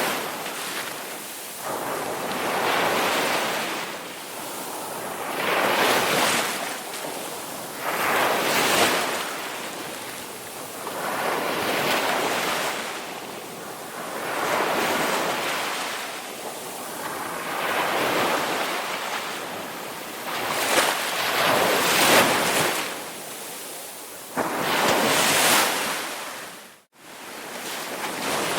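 Ocean surf: waves breaking and washing in, rising and falling in a steady rhythm of about one surge every two to three seconds. Near the end the sound cuts out for a moment, then resumes.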